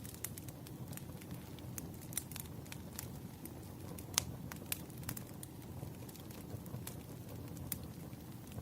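Wood fire crackling: irregular sharp pops and snaps over a low steady rumble of burning logs, with the loudest pop about four seconds in.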